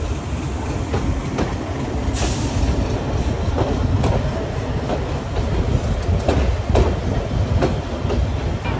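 Korotoa Express passenger train running at speed: a steady heavy rumble with the wheels clacking over rail joints at irregular intervals. A short hiss comes about two seconds in.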